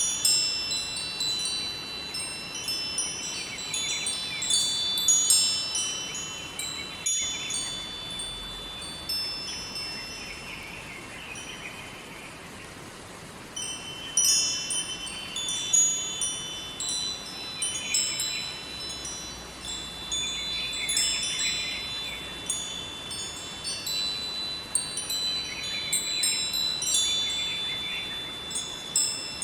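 Metal wind chimes ringing, a dense tinkle of overlapping high ringing tones, over a steady rush of flowing river water. The chimes thin out for a few seconds around the middle, leaving mostly the water, then pick up again.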